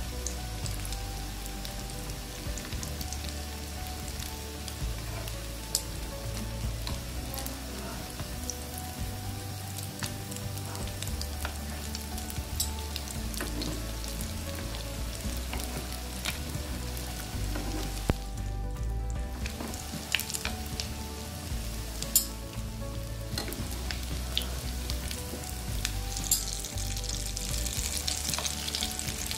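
Shami kababs shallow-frying in hot oil in a pan: a steady sizzle dotted with sharp pops and crackles, which drops away briefly a little past halfway. A metal spatula moves around the patties now and then as they are turned.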